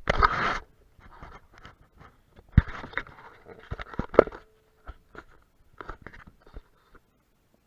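Irregular knocks, scrapes and rustles of handling, with a short loud rustle at the start and a sharp knock about four seconds in.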